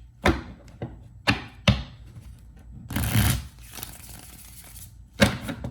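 A deck of tarot cards being handled: sharp taps of the deck on a table, three in the first two seconds and one near the end, with a short rush of shuffling cards about three seconds in.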